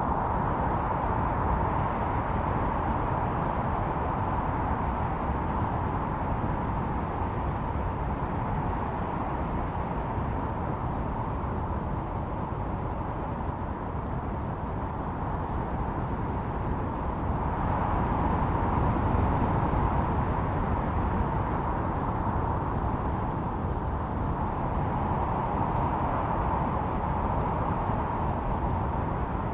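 Snowstorm wind blowing steadily, its howl swelling in gusts near the start, about two-thirds of the way through, and again shortly after.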